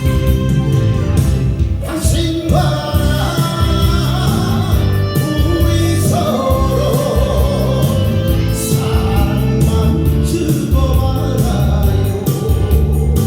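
A singer performing a Korean pop song with instrumental accompaniment and a steady low beat; the voice comes in about two seconds in after a short instrumental passage.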